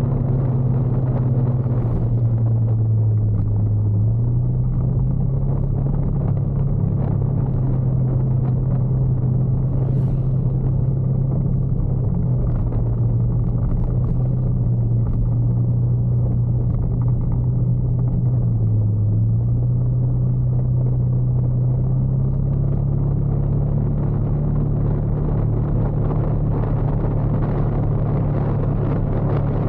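Motorcycle engine running steadily while riding, with small shifts in engine pitch a few times as the throttle changes.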